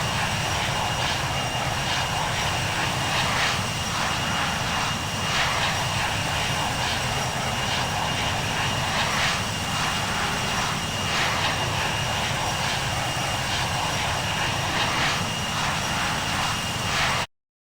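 Jet airliner's engines running at takeoff power: a steady rush with a thin high whine held throughout. It cuts off abruptly near the end.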